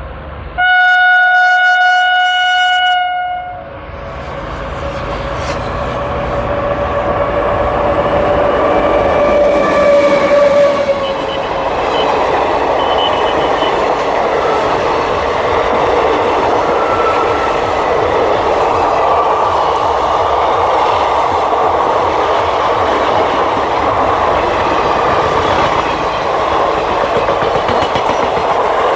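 Indian Railways locomotive horn sounding one loud blast of about three seconds, then a train passing with a steady rumble and the clickety-clack of wheels over rail joints.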